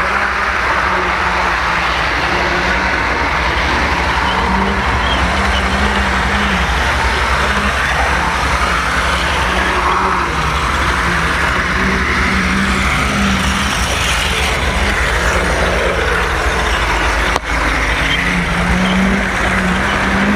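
Model train running along its track, heard from a camera riding on a flatcar: a steady rumble and rush of wheels on rail, with a motor hum that comes and goes. The sound drops out briefly near the end.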